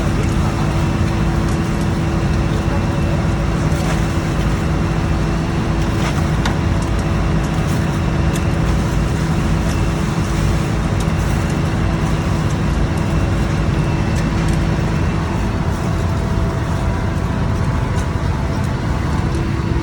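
A boat's engine running steadily at a constant speed, a loud unbroken drone with a steady hum.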